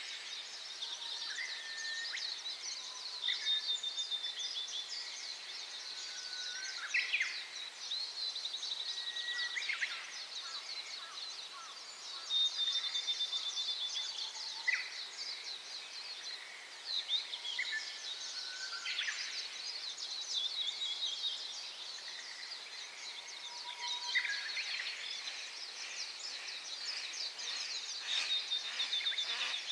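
Small songbirds chirping and singing, with short whistled notes and quick chirps throughout, over the steady rushing hiss of a clear mountain stream.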